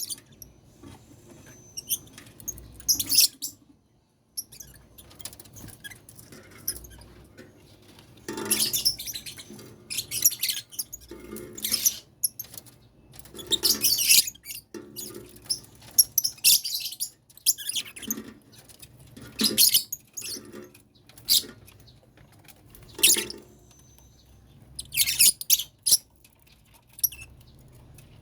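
Colony of lovebirds chirping and squeaking in repeated short bursts of high-pitched calls, with brief quiet gaps between them.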